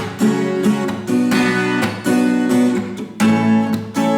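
Guitar strummed in the common Russian six-stroke 'шестёрка' strumming pattern, chords re-struck in a steady rhythm.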